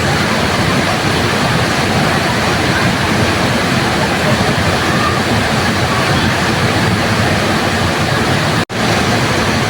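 Waterfall: water falling and rushing in a steady, even roar. About 8.7 s in, the sound cuts out completely for an instant and then resumes.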